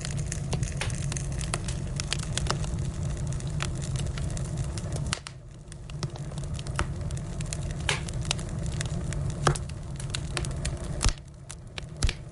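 Firewood burning, crackling with scattered sharp pops over a low steady rumble. The rumble drops away briefly about five seconds in and again near the end, where a few of the loudest pops stand out.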